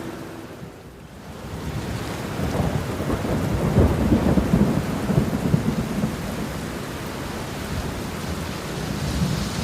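Steady rain with a rolling thunderclap: a low rumble swells from about two seconds in, is loudest around four to five seconds, then eases back under the rain.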